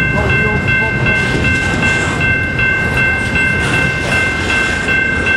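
Double-stack intermodal freight train rolling past close by: the well cars' wheels rumble and clatter on the rails, with a steady high-pitched squeal held over it.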